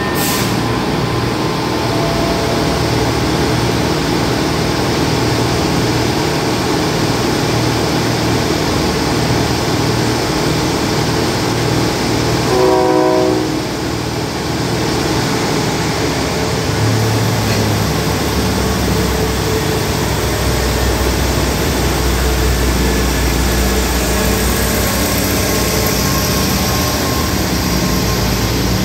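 Passenger train pulling out of the station, its coaches running past close by with a steady rolling noise. A short horn blast sounds about halfway through, and a deeper engine rumble builds over the last third.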